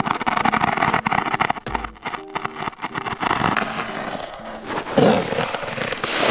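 Plastic tarp being pulled out and handled, rustling and scraping in irregular, crackly strokes.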